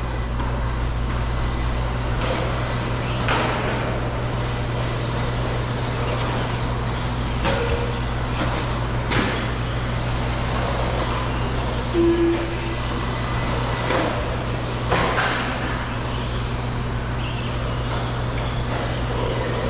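RC stadium trucks running on a dirt track: a steady low hum under faint track noise, broken by about seven short clatters, typical of the trucks landing jumps and hitting the track.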